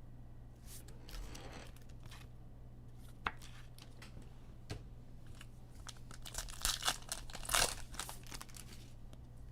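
Crinkling and rustling of a plastic trading-card pack wrapper, with small clicks and slides of cards being handled; the crinkling is densest about two-thirds of the way in.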